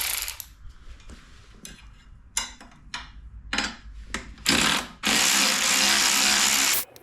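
A handheld power tool with a socket runs steadily for about two seconds near the end, spinning out a handlebar clamp bolt, then stops sharply. Before it come a few short knocks and clicks of tools on metal.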